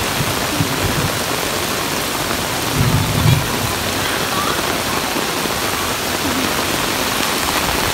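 Heavy rain pouring onto a wet concrete street, a steady dense hiss, with a brief low rumble about three seconds in.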